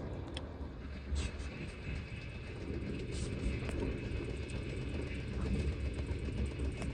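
Train running, heard from on board: a steady low rumble with scattered rattling and clicks.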